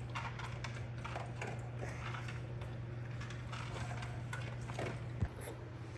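Faint clicks and knocks of small things being handled over a steady low hum, with one sharper knock about five seconds in.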